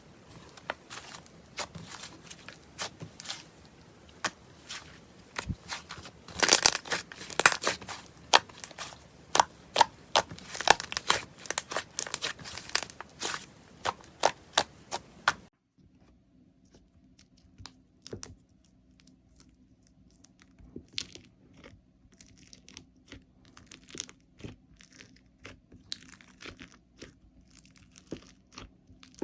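Slime being squeezed and worked by hand, giving many small sharp pops and crackles, densest and loudest about 6 to 13 seconds in. At about 15 seconds it cuts to another slime clip with sparser, quieter pops over a faint steady hum.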